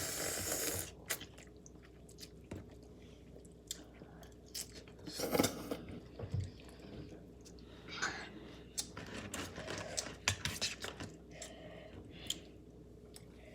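Someone chewing a mouthful of noodles close to the microphone, with scattered small clicks and a few short, noisy eating sounds.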